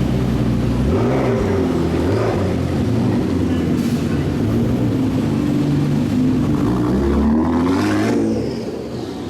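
Supercar engines revving as they pull away, the pitch rising and falling several times, with a long climbing rev near the end that drops off suddenly.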